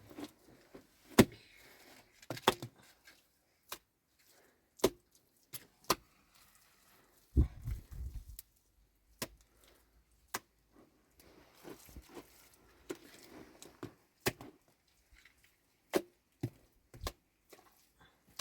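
Irregular sharp knocks and clicks, one every second or so, with a duller, heavier thump about seven seconds in.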